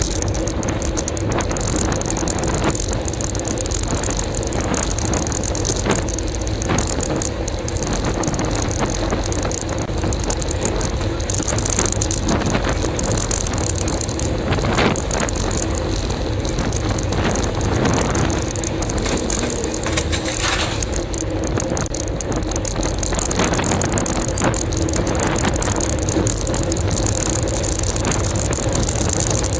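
Steady ride noise from a bicycle on the road, with wind on the microphone and a few brief knocks partway through.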